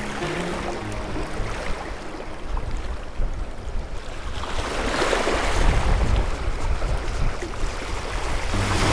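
Strong wind buffeting the microphone over waves washing on the shore, with a stronger gust swelling about halfway through.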